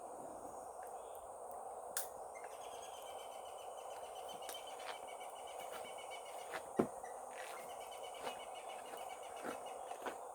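Insects chirping in two runs of rapid pulsed trills over a steady hiss, with a few sharp snaps scattered through, the loudest a little past the middle.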